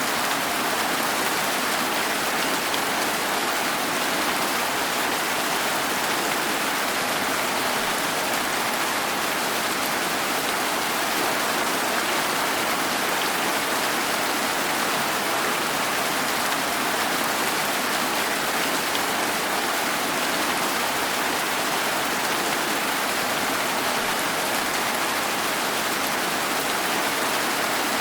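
Steady rain falling, an even hiss of many drops without distinct strikes or pauses.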